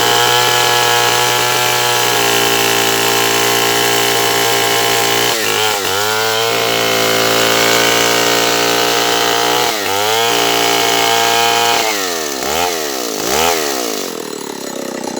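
Stihl 070 two-stroke chainsaw engine running at high speed. Its pitch sags and recovers twice, then is revved up and down twice and drops back near the end.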